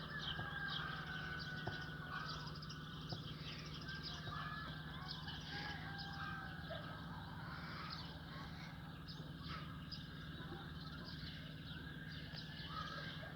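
Several wild birds chirping and whistling in forest, many short overlapping calls, over a steady low hum.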